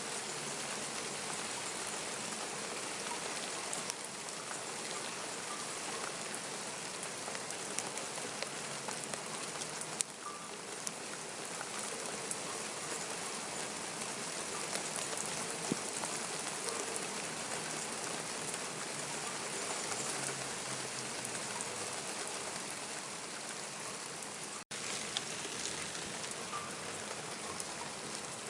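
Steady rain falling, with scattered raindrops ticking. The sound drops out for an instant about 25 seconds in.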